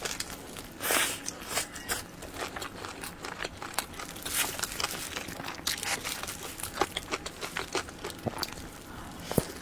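Close-miked eating of soft cream-filled cake roll: biting and chewing with many irregular wet mouth clicks and smacks, and a few longer rustling smears.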